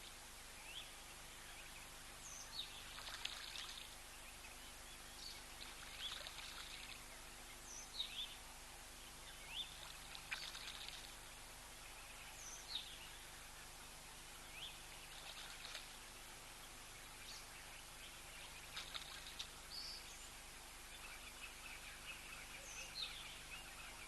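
Faint splashing of water as a Verreaux's eagle owl bathes, coming in short bouts every few seconds. Short, high, falling bird chirps sound between the splashes.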